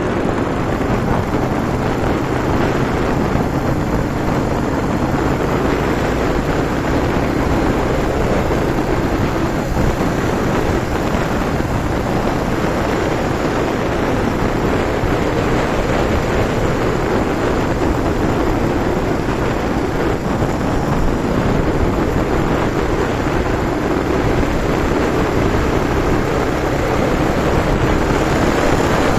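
Yamaha TW-200's single-cylinder engine running steadily while the motorcycle is under way, with rushing road and wind noise; no revving or gear changes.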